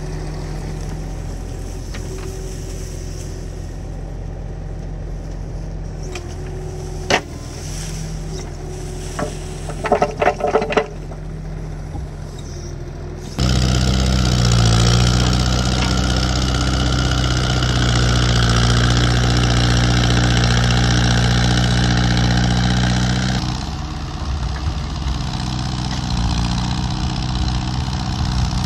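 Excavator diesel engine running steadily, with a knock and then a quick run of metallic clanks about a third of the way in. About halfway the engine gets suddenly louder and stays so for some ten seconds, then drops back somewhat near the end.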